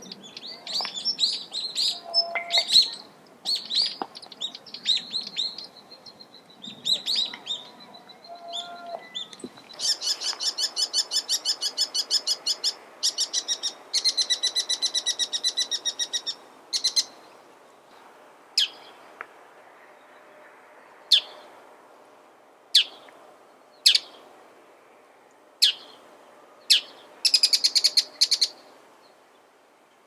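Wild birds calling: a string of varied high chirps, then rapid runs of repeated sharp notes, then single sharp calls every second or two, with one more rapid run near the end.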